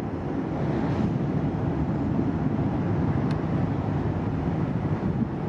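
Wind buffeting the microphone, a steady low rumble that flutters unevenly.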